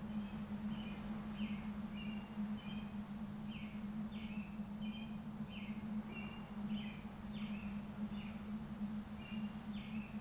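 A bird chirping repeatedly, short high notes about one or two a second, over a steady low hum and a rushing background hiss.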